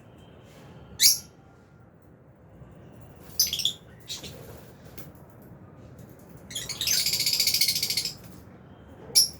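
Lovebirds calling: a few sharp, shrill single calls, and a longer burst of rapid chattering calls about seven seconds in.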